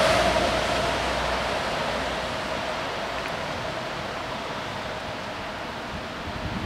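A steady rushing noise with a faint hum in it, fading slowly over the first few seconds and then holding low.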